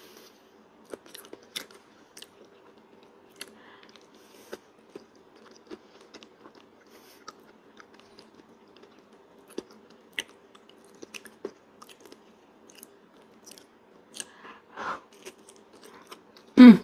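Durian flesh being chewed close to the microphone: scattered wet smacks and small clicks of the mouth over a faint steady hum. A loud, sharp knock comes just before the end.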